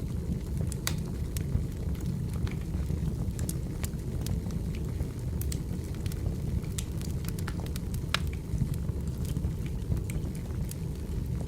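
Burning firewood crackling: a steady low rumble of the flames with sharp pops and snaps scattered irregularly throughout.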